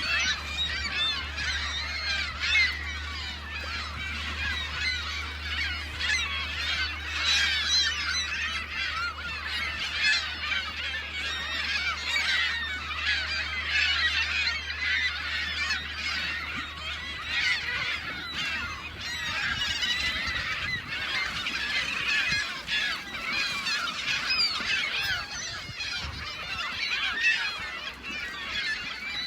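A large flock of gulls calling over one another non-stop, a dense chorus of squawks while they crowd in on food. A steady low hum sits underneath for the first two-thirds, then fades out.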